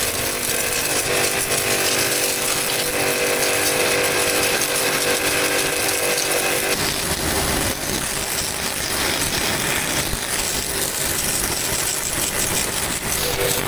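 A power tool running continuously with a loud, steady hissing grind and a humming tone that drops away about halfway through.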